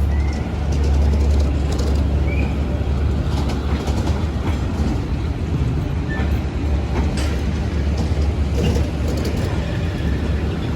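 Passenger train hauled by a D12E diesel locomotive rolling past: a steady low rumble with the clickety-clack of wheels over rail joints and a few brief wheel squeaks.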